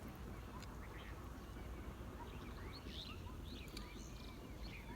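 Birds chirping in many short gliding calls, busier in the second half, over a steady low rumble.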